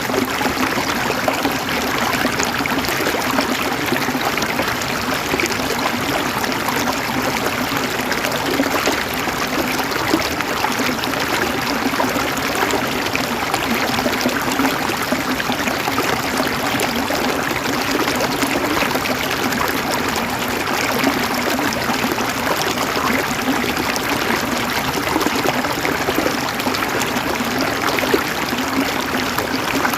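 Flowing water running steadily, a continuous even rush with no pauses.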